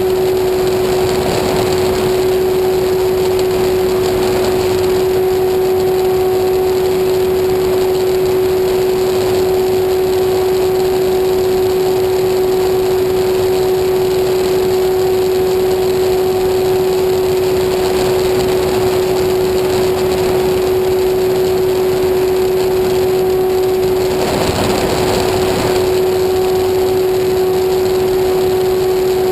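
Engine of a homemade light aircraft running at a constant speed, a loud steady drone with one unchanging pitch.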